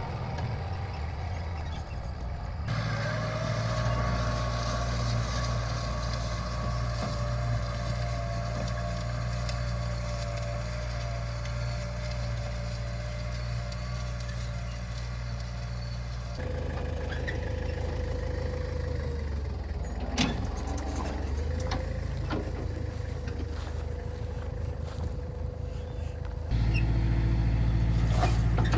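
Kubota M9000 tractor's diesel engine running steadily, heard across a few edited shots that cut abruptly from one to the next, with a thin steady whine above the engine and a few sharp clicks in the middle.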